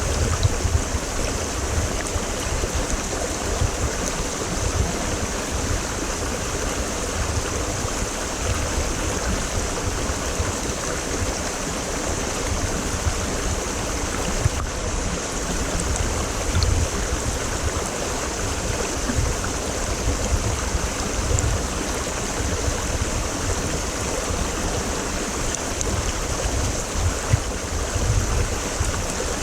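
Creek water rushing steadily over rocks, a continuous even rush with a fluttering low rumble underneath.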